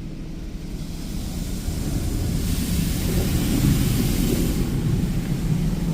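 High-pressure rinse water from a PDQ LaserWash 360+ touchless car wash spraying against the car, heard from inside the cabin: a hiss and drumming that builds about two seconds in, is strongest for a couple of seconds, and eases off near the end as the spray passes. A steady low hum runs underneath.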